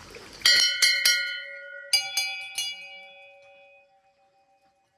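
Hand-rung Hindu temple bells: two bells, each struck three times in quick succession, the second a moment after the first, their ringing dying away over a couple of seconds.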